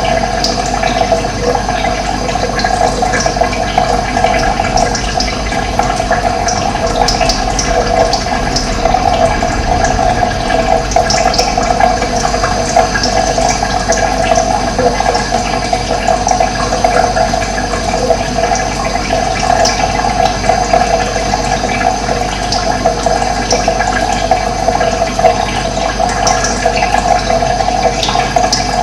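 Running water rushing steadily, with brief high bird chirps scattered throughout.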